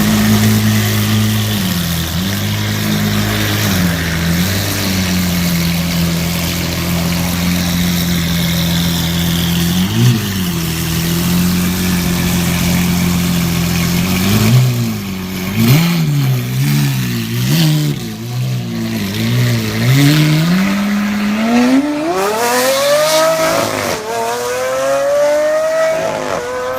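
Lamborghini Aventador's V12 engine with an aftermarket exhaust idling steadily, with a few short throttle blips. It then gives a run of quick revs and finally accelerates hard, pitch climbing steeply, dropping once at a gear change and climbing again.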